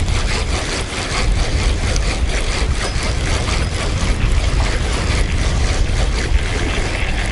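Wind buffeting the microphone: a steady, loud rushing rumble with no other distinct sound.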